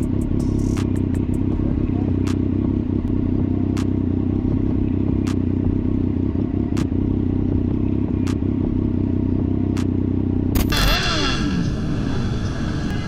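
Motorcycle engine running at a steady pitch, with sharp ticks about every second and a half. About ten seconds in it cuts abruptly to a different traffic sound with sweeping rises and falls in pitch, like vehicles passing or revving.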